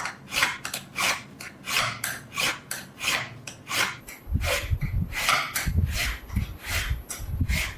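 Hand filing or sanding of the rusted steel knife blade: rasping back-and-forth strokes at about two a second. Low thuds come in with the strokes a little past halfway.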